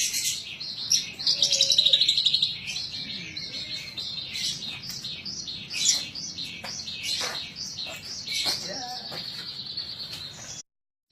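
Horsfield's bush lark (branjangan) in full song: a long, varied stream of rapid high chirps and warbles with a dense trill about two seconds in, cutting off suddenly near the end.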